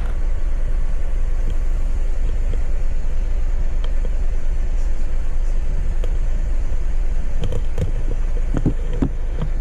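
A car driving, heard as a steady low rumble of engine and road noise, with a few faint clicks near the end.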